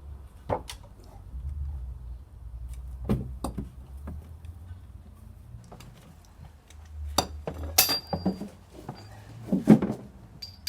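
Scattered sharp metallic clinks and knocks of a breaker bar and socket on a Chevy V8's connecting-rod cap nuts as they are loosened, busiest in the second half, over a low rumble of handling.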